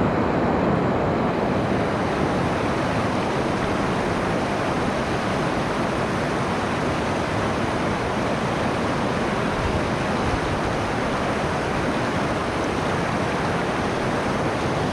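River water rushing over and between rocks, a loud, steady roar of whitewater without a break.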